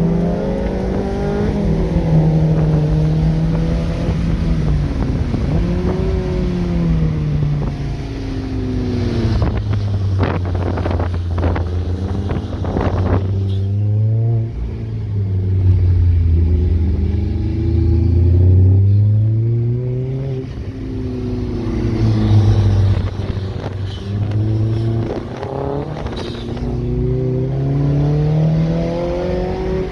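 Mazda Miata four-cylinder engine accelerating hard through the gears, its note climbing and then dropping at each upshift, over and over. A cluster of sharp knocks comes about a third of the way through.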